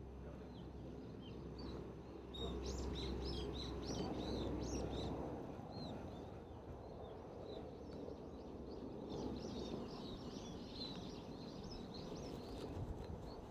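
Small birds chirping and twittering in quick short calls, in two busy spells, over a steady low rumble of outdoor background noise.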